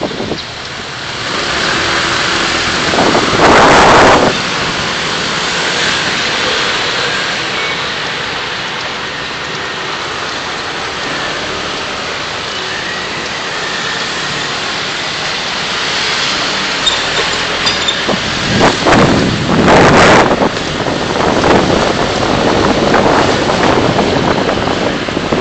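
Road and traffic noise from a car driving through city streets, picked up by a dashcam: a steady rushing hiss with two louder swells, about three seconds in and again around nineteen seconds.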